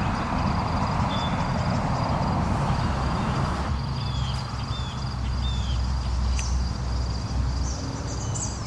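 Rustling and handling noise with a low rumble as the camera is carried toward the creek, brighter for the first few seconds. Under it an insect trills steadily, and a few short bird chirps come around the middle.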